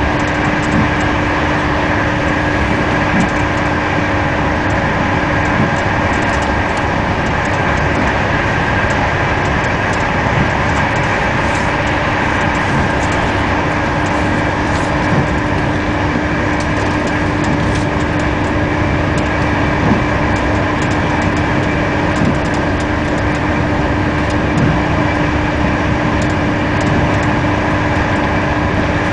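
Passenger train carriage in motion, heard from inside: a steady rolling rumble with a constant hum and a higher whine running through it.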